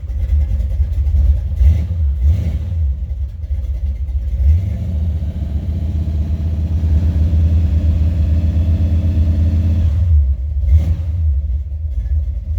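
Buick 455 Stage-1 V8 running, heard from inside the car's cabin: a steady low engine note that grows fuller from about four seconds in and eases off near ten seconds.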